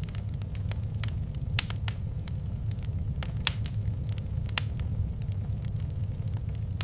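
Wood fire crackling in a fireplace: irregular sharp pops and snaps, three of them louder, over a steady low rumble.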